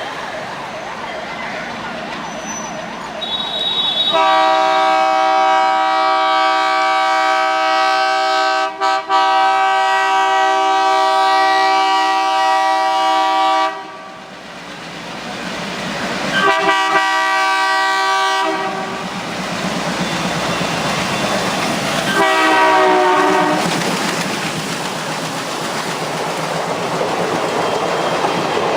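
WDM3A diesel locomotive's air horn sounding a long blast of about ten seconds, broken twice very briefly, then a shorter blast and a brief wavering one. Underneath is the running noise and clickety-clack of the moving train.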